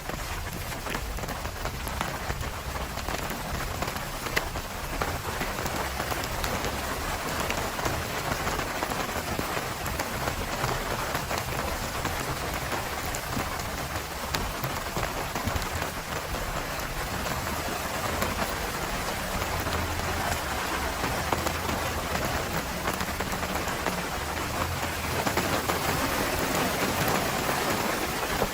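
Steady heavy rain, with many separate drops ticking on a surface over a continuous hiss; it grows a little louder near the end.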